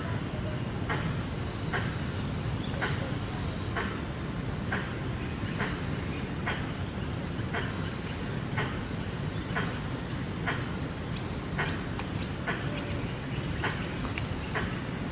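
Rainforest insects droning in a steady high pitch. Over them a short sharp call repeats about once a second, with fainter high chirps in between.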